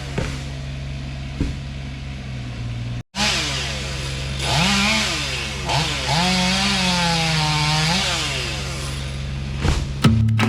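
Chainsaw running and cutting wood, its engine pitch rising and falling as it works through the cut; there is a sudden break about three seconds in. Guitar music comes in near the end.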